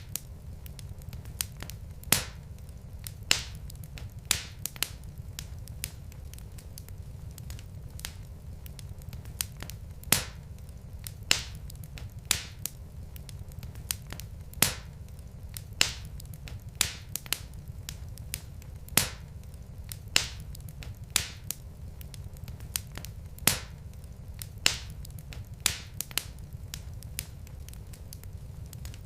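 Wood logs burning in a fireplace: irregular sharp crackles and pops, a few much louder than the rest, over a steady low rumble of the flames.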